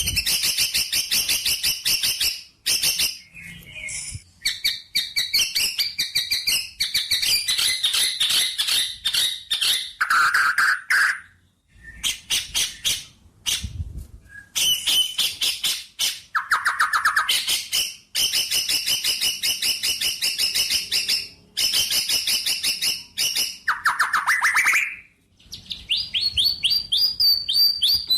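A songbird singing long phrases of very rapid repeated chirps and trills, with short pauses between phrases; a few phrases drop to a lower-pitched rolling trill.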